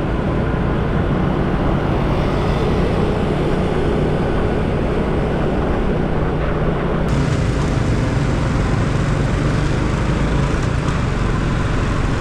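Steady noise of a motorcycle ride in city traffic: engine and wind rush, strongest in the lows, with more hiss in the highs from about seven seconds in.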